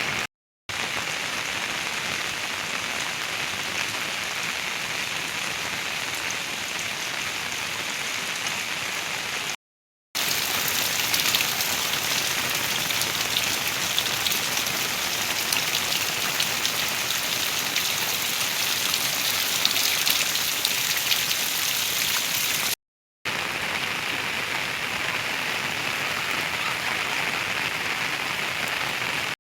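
Heavy rain falling steadily, with a dense patter of drops. It breaks off briefly three times, and the middle stretch is brighter, with more distinct drop hits.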